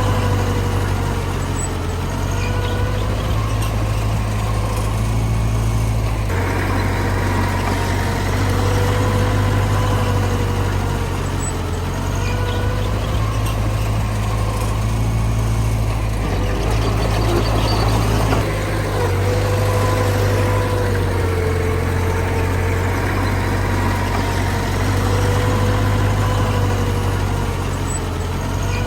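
Heavy diesel earthmoving machinery, dump truck and bulldozer, running steadily: a loud low engine drone with a wavering whine riding over it, shifting a little in tone a few times as the machines work.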